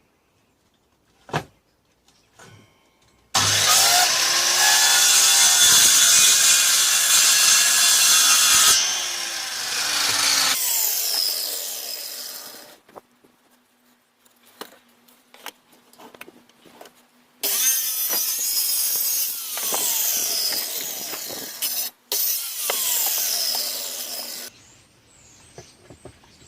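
A power tool working material under load in two long loud runs, with pitch glides as its speed changes. Scattered knocks and taps come between the runs.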